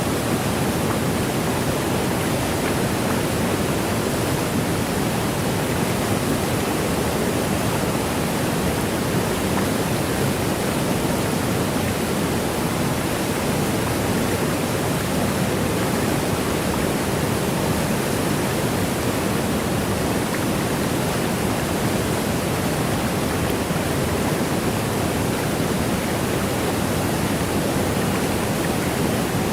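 Steady rush of a waterfall: an even, unchanging wash of falling water with no separate splashes or events.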